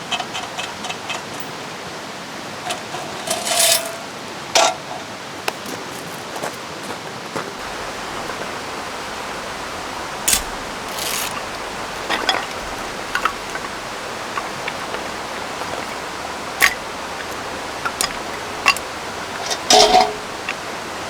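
Steady rushing of rain and a flowing river, with scattered short clicks and knocks, a few with a brief metallic ring, about three seconds in and again near the end.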